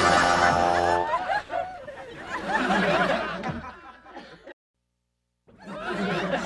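A strummed guitar chord rings and cuts off about a second in, then people chuckle and snicker. The sound drops out completely for about a second before laughter and voices come back near the end.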